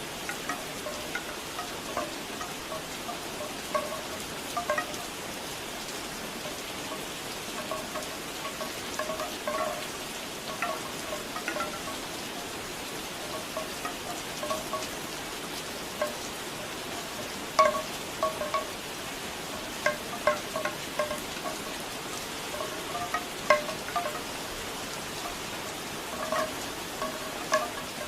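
Steady rain falling, with bamboo wind chimes knocking irregularly over it in hollow wooden clacks.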